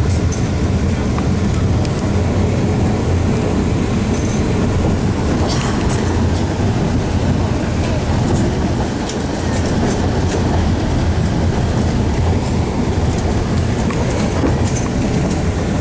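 Alishan Forest Railway narrow-gauge passenger train heard from inside a coach while running: a steady low rumble of wheels on rail, with scattered light clicks.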